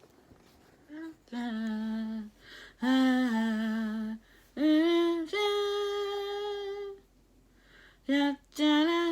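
A woman's unaccompanied voice singing wordlessly, humming a slow opening melody in long held notes, one of them rising in pitch before it is held.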